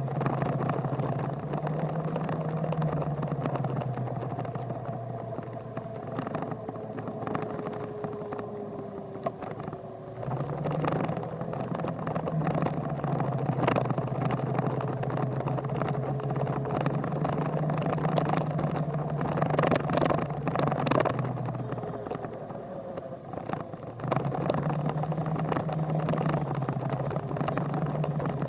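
Motorcycle engine running at a steady pitch, easing off briefly twice, with scattered clicks and knocks over it.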